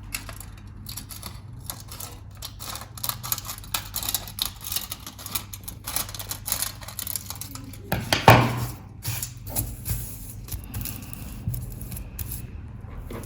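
Aluminium foil crinkling and crackling in quick irregular clicks as it is handled and folded, with one louder crumpling rustle about eight seconds in.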